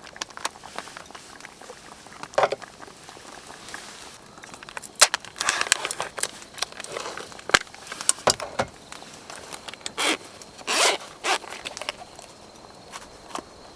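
Camping gear being handled: several short rasping strokes like a zipper being pulled, with rustling and a few sharp clicks in between.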